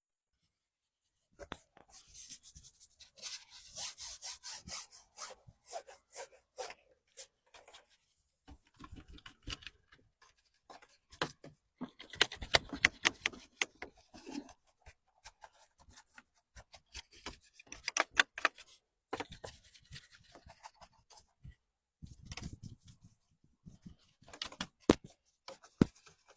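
Rubbing and scrubbing strokes on a surface, starting about a second and a half in, in quick irregular runs broken by sharp clicks and knocks.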